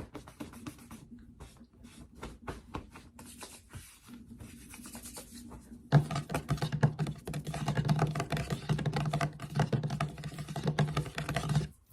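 Fast, rapid tapping and scratching on objects and skin close to a sensitive microphone. About halfway through it gets much louder and denser, over a steady low hum, then cuts off just before the end.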